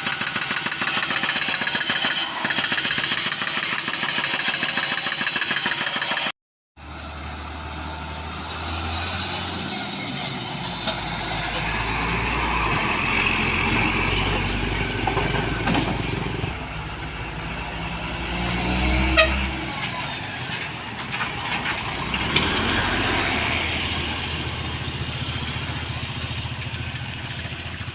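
Heavy diesel machinery running under load, a steady low engine drone. The sound cuts out briefly about six seconds in and resumes as a new stretch with a deeper drone and a few sharp knocks.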